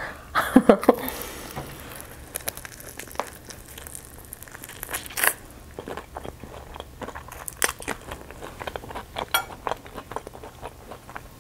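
A person chewing a mouthful of fried chicken coated in stretchy cheese, close to the microphone: scattered crunches of the crispy breading with soft wet chewing between. The loudest crunches come just after the start and about five seconds in.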